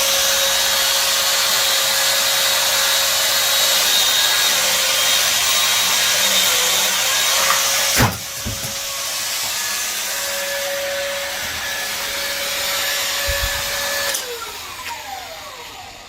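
Tree trimming machine's motor running steadily with a steady whine. A sharp knock comes about halfway, after which it runs a little quieter, and near the end it winds down with a falling pitch.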